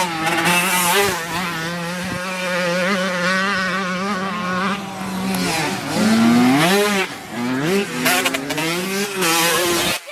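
Dirt bike engines running, holding a steady note for several seconds. A little past the middle they rev up and down several times.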